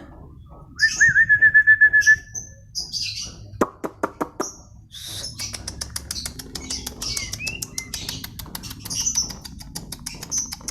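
White-rumped shama (murai batu) singing. About a second in, a fast burst of loud repeated notes on one pitch; from about five seconds in, a rapid run of dry ticks, about seven a second, with high whistled notes over it.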